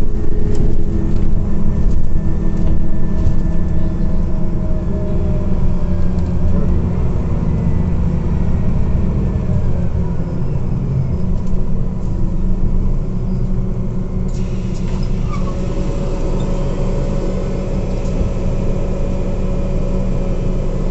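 Scania Omnicity CNG city bus under way, heard from inside the passenger cabin: steady engine and road rumble, easing off a little after the first few seconds. About two thirds of the way through, a steady hiss comes in suddenly.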